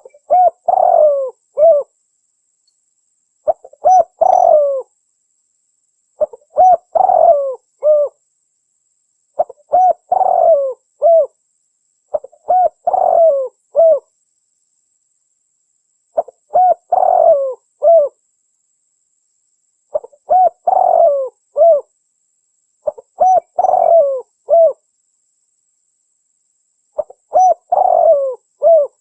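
Spotted dove (tekukur) cooing: a phrase of several coos repeated about every three seconds, nine times, with dead silence between phrases. It is a recorded lure call used to draw wild spotted doves.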